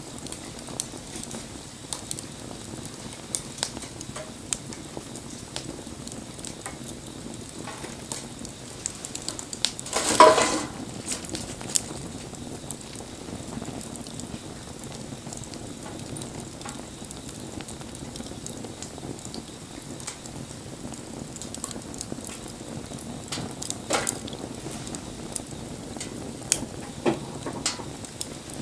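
Wood fire burning with a steady hiss and scattered sharp crackles and pops. About ten seconds in comes one louder burst lasting about half a second, and there are a few stronger pops near the end.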